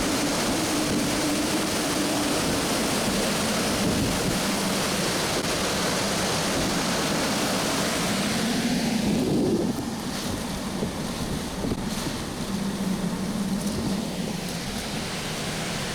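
Hurricane-force wind blowing hard, a dense steady rush of noise with wind buffeting the microphone, easing a little about ten seconds in.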